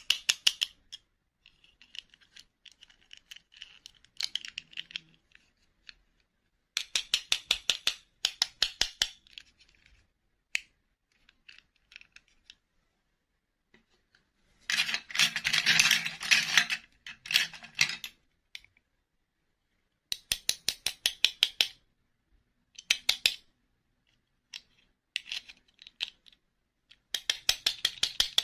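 Short runs of rapid clicking, about ten clicks a second, starting and stopping every second or two, with a louder rustling, crinkling burst about halfway through.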